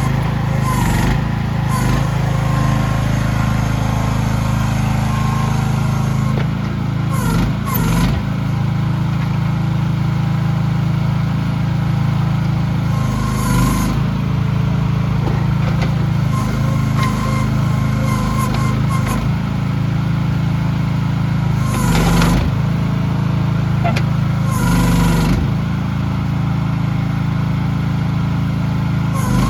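Engine of a CFG QK16R mini excavator running steadily, with brief louder surges several times.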